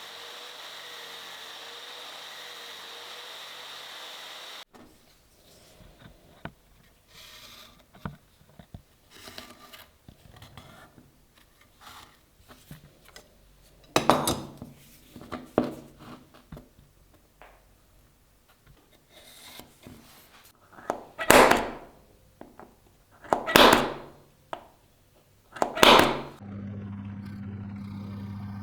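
Workshop tool sounds: a power tool runs steadily with a high whine and stops abruptly about five seconds in. Then come light handling clicks and five loud scraping strokes, and near the end a steady low electric motor hum starts.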